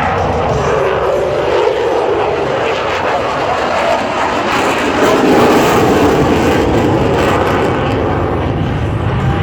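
Jet noise from an F-22 Raptor's twin Pratt & Whitney F119 turbofans in a flying display, loud and continuous. Its pitch falls in the first second, and it grows louder again about five seconds in.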